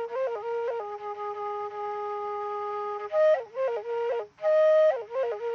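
Background music: a solo flute melody, quick runs of short notes between long held notes.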